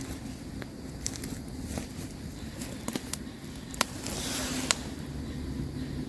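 Campfire burning: scattered crackles and sharp pops over a steady low rumble, with a short hiss about four seconds in.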